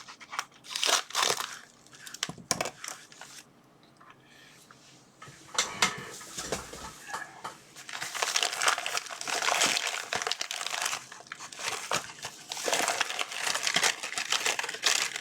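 Packaging crinkling and rustling in irregular bursts as a mail package is handled and opened, with a quieter pause about three seconds in before the crinkling picks up again and carries on.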